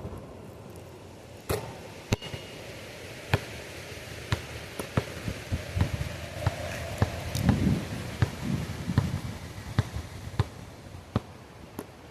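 A series of sharp clicks or taps, irregular at about one to two a second, over low wind rumble.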